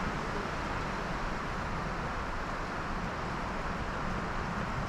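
Adventure motorcycle under way off-road: a steady rush of engine and wind noise, with no revving or gear changes.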